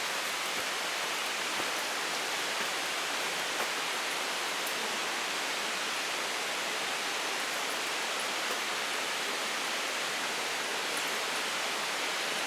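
A small brook rushing steadily, an even hiss of flowing water.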